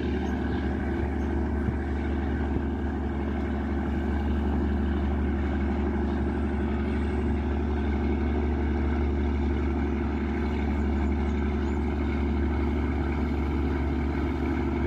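Riverboat's 829 hp Yanmar marine diesel engine running steadily under way, a constant deep drone with a low hum.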